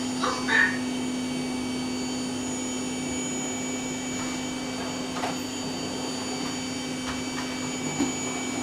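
Vacuum cleaner running steadily, with an unchanging motor whir and a low hum.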